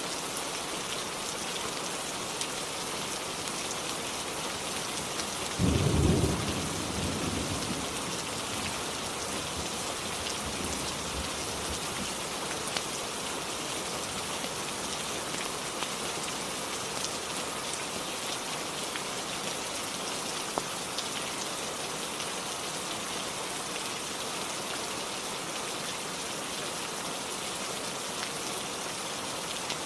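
Steady heavy rainfall, with a single clap of thunder about five seconds in that rumbles away over the next few seconds.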